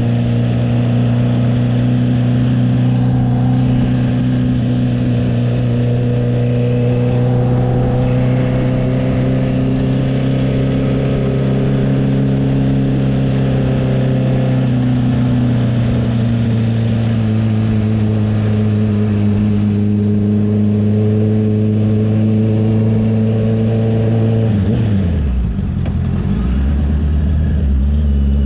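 Honda CB650R's inline-four engine running through an aftermarket CS Racing exhaust, held at a steady pitch that drifts slightly with the throttle. Near the end the revs drop sharply to a lower, idle-like note, then begin to climb again.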